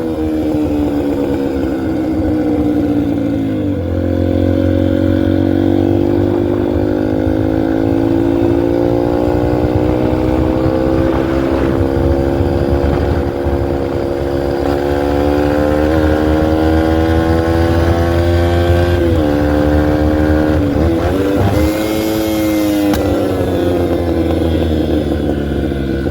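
2003 Yamaha TTR125L dirt bike's single-cylinder four-stroke engine under way at high revs. The pitch drops sharply once, then holds high and creeps upward, with a few brief dips as the throttle is eased and reopened, before falling off again near the end.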